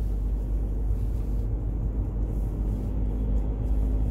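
Steady low engine and road rumble inside the cabin of a moving car.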